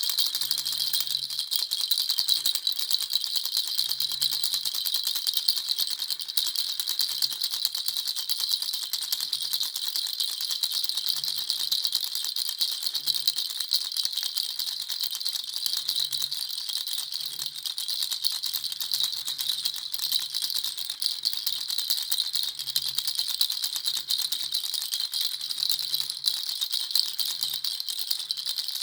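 Baby's rattle shaken continuously: a dense, fast, steady clatter of small beads with no pauses.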